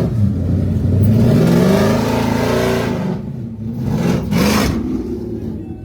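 A car engine revving hard: its pitch climbs and falls over the first few seconds, then a second short, sharp rev comes about four seconds in.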